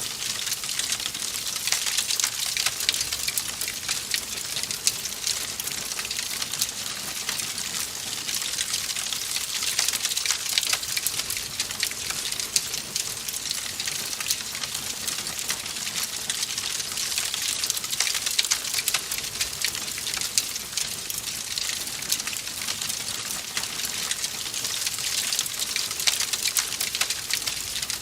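Wood fire crackling in a fireplace: a steady, dense run of small sharp pops and snaps over a hiss.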